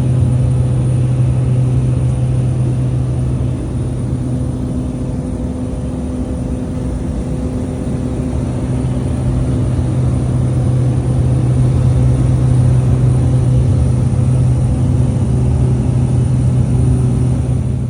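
Light propeller aircraft's engine running with a steady, loud drone and a constant low hum.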